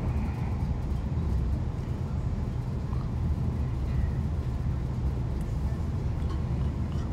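Steady low rumble heard inside the carriage of a Chiltern Railways diesel multiple unit running at speed: wheels on the rails and the underfloor engine, with no let-up or change.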